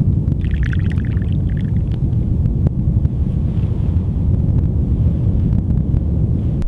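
Strong wind blowing as a steady, loud low rumble, with a brief higher scraping or crunching sound from about half a second to two seconds in.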